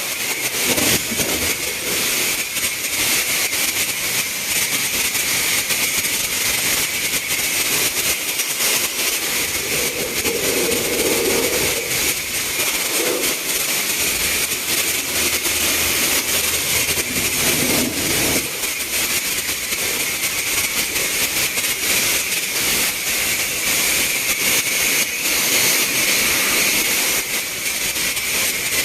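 High-pressure spray wand at a self-serve car wash, hissing steadily as water is sprayed onto the car.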